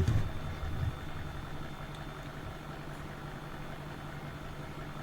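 A steady low hum with a few soft low thumps in the first second.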